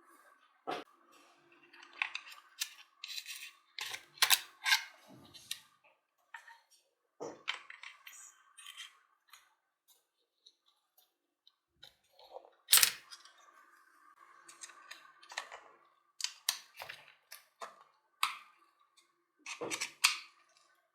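Irregular clicks, taps and short scrapes of parts and hand tools as a hammer drill is taken apart.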